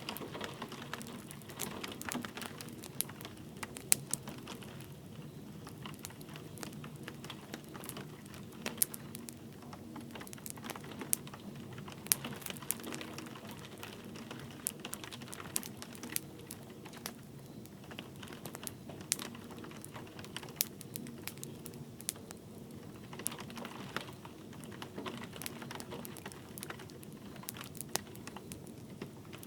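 Wood fire crackling in a fireplace, with irregular sharp pops and snaps, over a steady soft patter of light rain.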